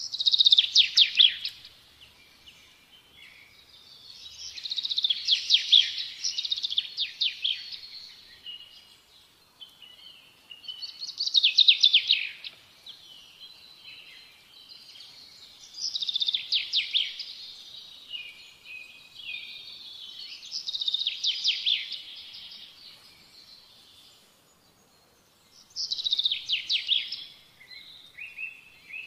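A songbird singing: loud high phrases of rapid trills, each a second or two long, repeated every four to five seconds, with softer twittering between.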